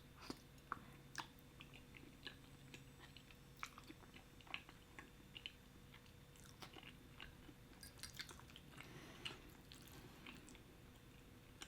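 Faint close-miked chewing of shrimp Alfredo with angel hair pasta: soft, scattered wet clicks and smacks of the mouth, a few each second.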